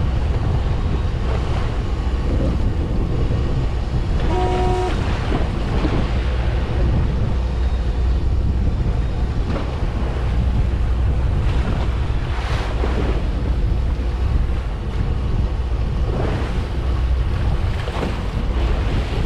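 Fishing boat at sea: a steady low rumble with wind buffeting the microphone and sea noise washing over it in gusts. A brief tone sounds about four and a half seconds in.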